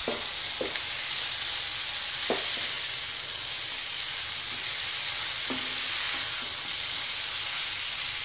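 Shredded cabbage sizzling in oily masala in a kadai while a wooden spatula stirs and folds it from the bottom up, with a steady frying hiss. The spatula scrapes and knocks against the pan four times.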